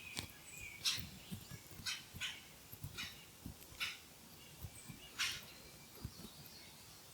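Young red-tailed hawks giving short, harsh begging screeches, about seven of them at irregular intervals roughly a second apart.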